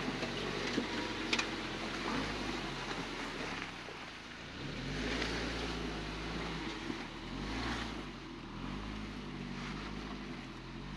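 Suzuki Jimny JB74's 1.5-litre four-cylinder engine running at low revs, its pitch rising and falling several times as it is eased along at crawling speed, with some wind on the microphone.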